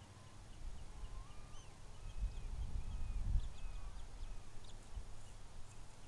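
Low rumbling noise that swells about a second in and peaks around three seconds, with faint, thin bird chirps and short whistles.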